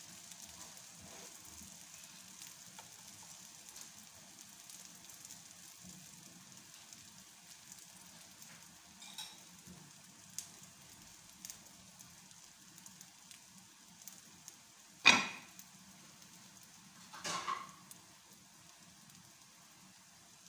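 Egg paratha frying in a pan, a faint steady sizzle. Two short, sharp clatters cut in about three-quarters of the way through, the first loud, the second two seconds later.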